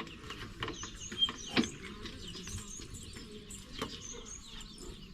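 Small birds chirping in short high notes, with a few sharp knocks, the loudest about a second and a half in.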